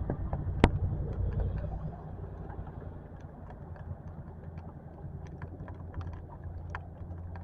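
Rain falling, with scattered drops ticking close by over a low steady hum. One sharp click comes just under a second in, and the hum is louder for the first two seconds.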